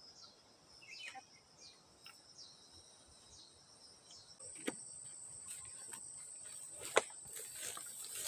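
Insects trilling in a steady, high continuous tone with short repeated chirps. A louder high trill joins about four seconds in, and a few sharp clicks or knocks come in the second half.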